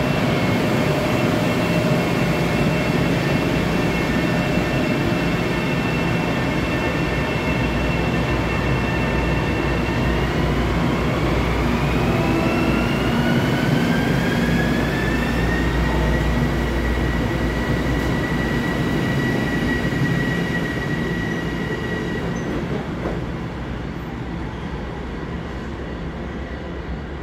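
LIRR M7 electric multiple-unit train pulling out and accelerating, its motor whine holding steady pitch, then rising from about ten seconds in as it gathers speed, over the rumble of wheels on rail. The sound fades in the last few seconds as the last car passes.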